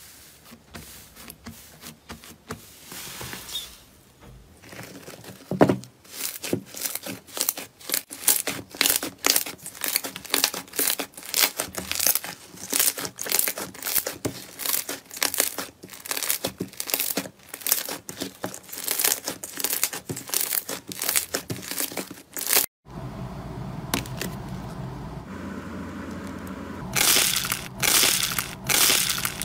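Slime being squeezed and worked by hand, a dense run of crisp pops and crackles. About 23 seconds in it cuts to another clip with a steady hiss under the handling, and a loud stretch of crackling near the end.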